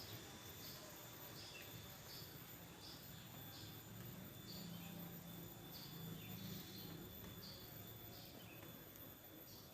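Faint outdoor ambience: a small animal's short high chirps repeating about every two-thirds of a second, over a low hum.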